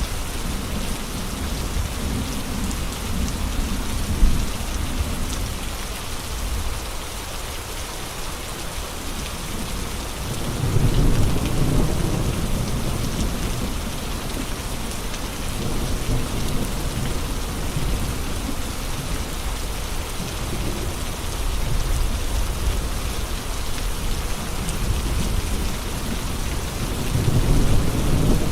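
Steady heavy rain and gusty wind, an even hiss, with low rumbles that swell and fade several times, strongest about eleven seconds in and near the end. A brief sharp sound stands out about four seconds in.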